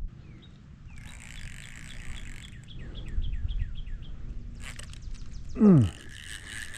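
Fishing reel being cranked, a rhythmic ticking run of about four short chirps a second, then a steady whir. A short, loud sound falling in pitch comes near the end.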